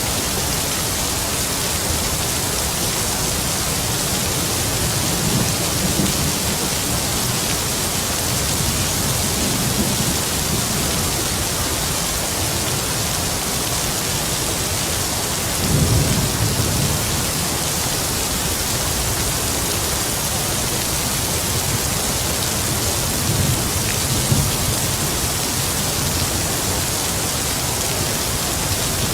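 Heavy rain falling steadily, with distant thunder rumbling low several times, the strongest rumble about halfway through.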